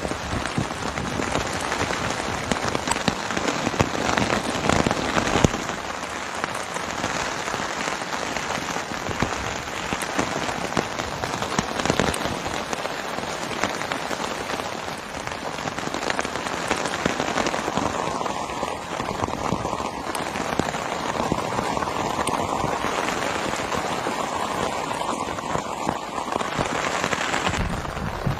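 Heavy rain falling steadily, a dense patter of countless drops striking surfaces.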